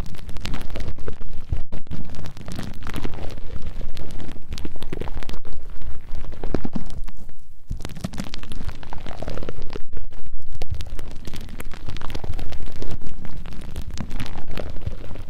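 Fingers rubbing, scratching and flicking right on a binaural ASMR microphone's ears: a loud, dense crackling rustle full of small clicks over a low muffled rumble, with a few slower sweeping rubs.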